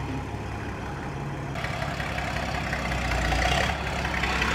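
Heavy engine running steadily. About a second and a half in, a rougher hiss joins it and the sound slowly grows louder.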